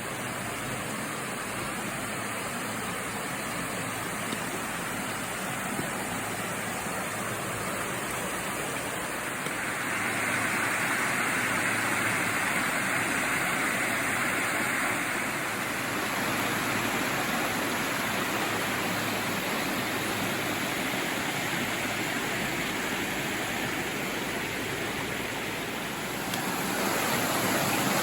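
Waterfall rushing, a steady hiss of falling water that grows louder about ten seconds in and again near the end.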